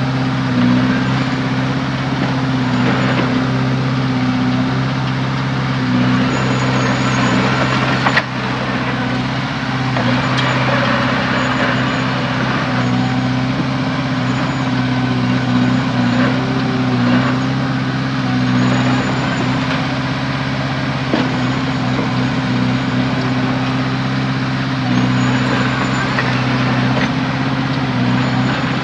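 Heavy diesel engine running steadily under work, with scraping and clanking over it and one sharp knock about eight seconds in.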